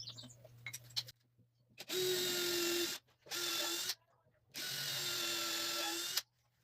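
Electric drill boring a hole through pallet wood, running in three bursts: about a second, half a second, then nearly two seconds.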